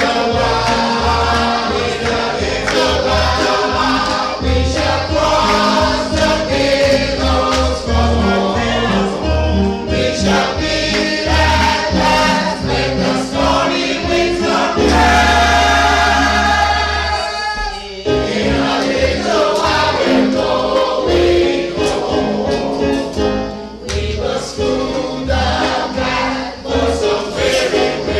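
A choir singing a gospel hymn over instrumental accompaniment with a low bass line. A long chord is held about halfway through, followed by a brief drop just after.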